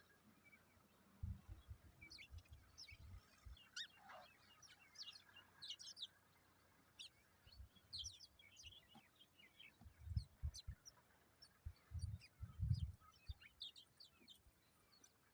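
Faint birdsong: many short, high chirps and tweets scattered throughout. Clusters of low thumps come and go, loudest about ten and twelve seconds in.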